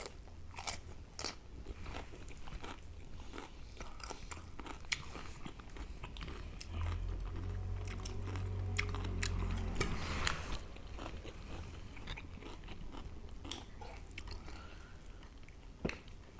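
Close-up eating sounds: crisp crunching bites and chewing, starting with a bite into a fresh cucumber slice, with scattered sharp clicks of fingers working rice and food. A low rumble runs for a few seconds in the middle.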